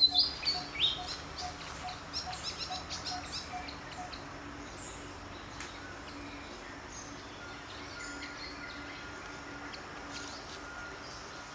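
Birds chirping over steady outdoor ambience: a few loud high chirps in the first second, then a fast run of short chirps that thins out after about four seconds. A thin, steady high tone comes in past the middle.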